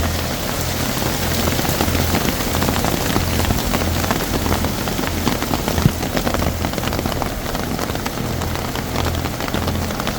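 Heavy rain pattering on an open umbrella overhead: a dense, steady patter of drops.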